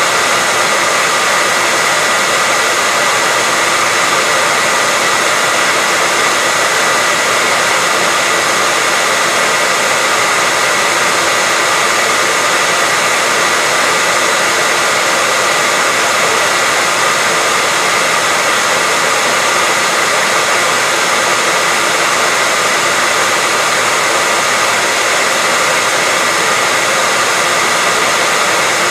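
Hair dryer running steadily: a constant even blowing rush with a faint high steady whine, used as white noise for sleep.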